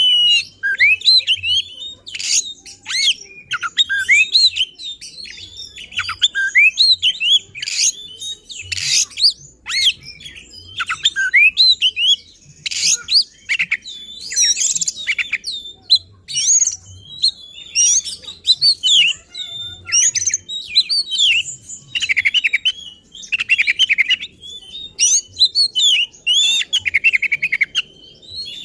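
Oriental magpie-robin (kacer) singing hard, a rapid run of varied whistles, trills and harsh, rasping notes in bursts with short gaps. It is the bird's excited, insistent full song, loaded with fill-in phrases ('isian').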